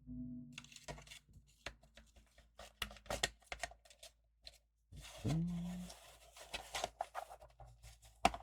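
Hands working a screwdriver on the plastic housing of a small solar light: irregular clicks and scratches, with a brief rising squeak about five seconds in.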